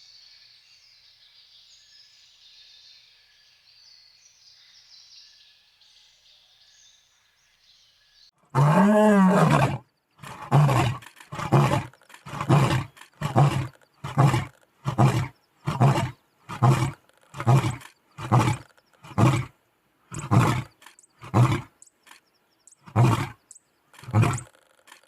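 Lion roaring, heard over a faint background of insects and birds. About eight seconds in comes one long, loud roar, then a series of shorter grunting roars, one every second or less, slowing toward the end.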